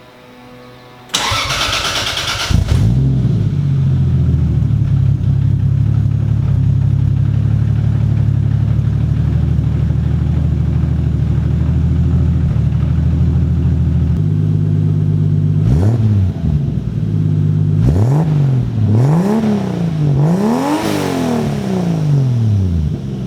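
Toyota 2JZ inline-six engine cranked by its starter and catching about two seconds in, then running at a fast idle that settles lower partway through. Near the end it is blipped four times, each rev rising and falling back to idle.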